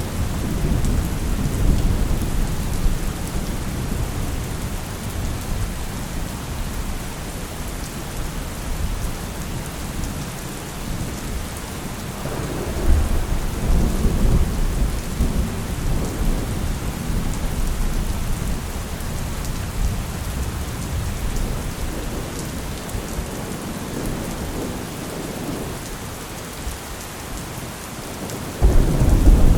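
Steady heavy rain with rolling thunder: a low rumble swells up about halfway through, and a louder thunderclap breaks in suddenly near the end.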